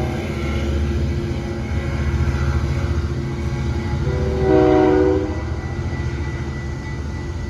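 Train locomotive running with a steady low rumble. Its multi-note horn sounds once, for about a second, around four seconds in.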